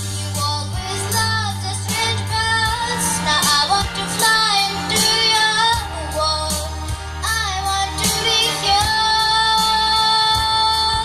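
A young girl singing a wavering, ornamented melody without clear words over a backing track with a steady bass line. She ends on a long held high note.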